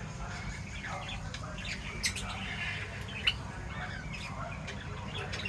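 Pet birds chirping and squawking in a dense run of short calls, two sharper ones standing out about two and three seconds in, over a steady low hum.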